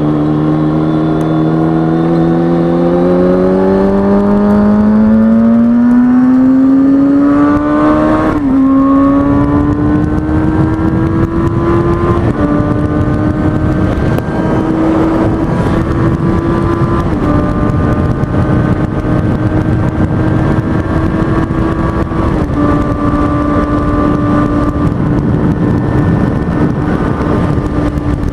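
Kawasaki ZX-6R 636 inline-four sport bike engine pulling hard through one gear, its pitch climbing steadily, then upshifting about eight seconds in and holding a high, nearly steady note at cruising speed with a few small dips. Steady wind noise underneath.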